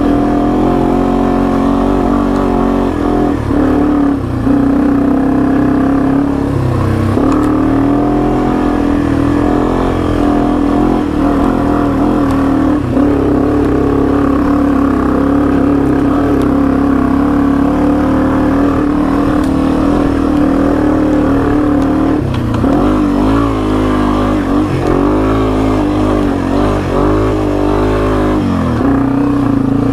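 Yamaha TW200 dual-sport motorcycle's single-cylinder engine running under load while being ridden off-road. Its pitch rises and falls with the throttle, wavering most in the last quarter.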